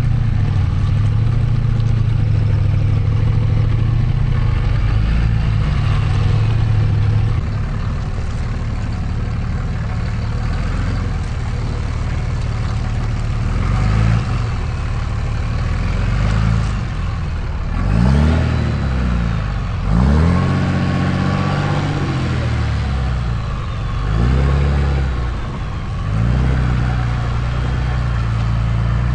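Diesel engine of a Cummins-swapped Ram 1500 pickup running steadily at low speed, then revving up and easing off about seven times in the second half, each rise and fall lasting a second or two.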